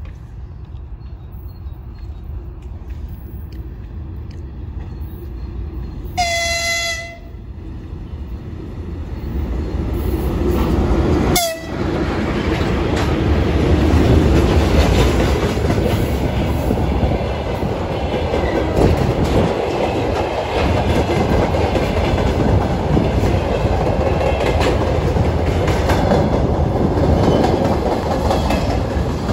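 A freight train hauled by an electric locomotive approaches and passes close by. It gives one horn blast, about a second long, some six seconds in. The locomotive then goes by and a long string of open freight wagons rolls past.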